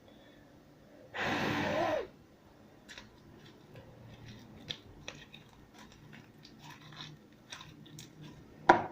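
Sticky slime being handled and gathered by hand: many small soft clicks and crackles. There is a louder second-long rustle about a second in.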